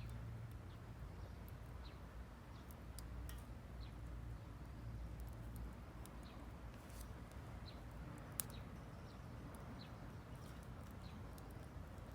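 Small wood fire in a Vargo Hexagon titanium wood stove crackling, with irregular faint ticks and one sharper pop about eight seconds in, over a steady low rumble.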